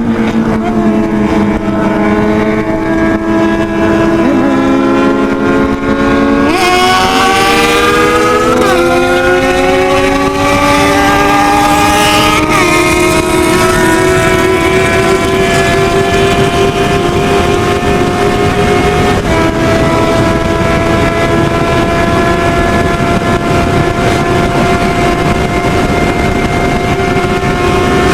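Motorcycle engine pulling hard at high speed, its pitch climbing slowly with a few brief hitches, then holding steady for the last several seconds. A hiss of wind rush joins about a third of the way in.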